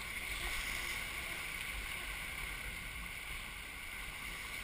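Water rushing steadily along the hull of a Melges 24 sailboat moving fast downwind, with a low wind rumble on the microphone.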